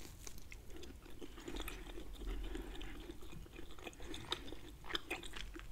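A person biting into and chewing a mouthful of grilled lamb chop meat close to the microphone: soft, irregular chewing with many small mouth clicks.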